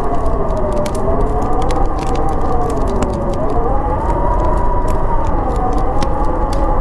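Howling storm wind: a low steady rumble under a whistling howl that slowly rises and falls in pitch, with the sharp pops and snaps of a crackling wood fire scattered through it.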